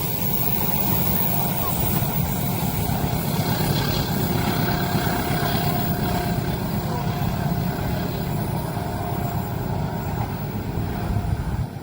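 A train passing close by at speed: a steady, loud rumble of wheels on the rails that drops away suddenly near the end.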